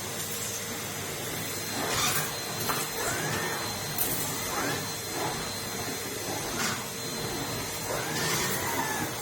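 Numatic Henry cylinder vacuum cleaner running with a steady hum. Several brief loud whooshes and short rising whistles break in as the suction changes.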